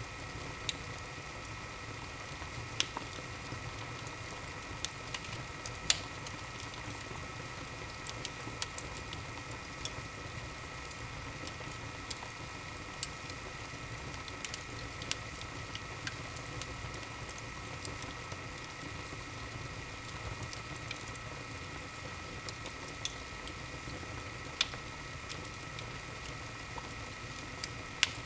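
Wood fire burning in a fireplace: a steady low rush of flame with sharp crackles and pops of burning logs at irregular intervals, every second or two.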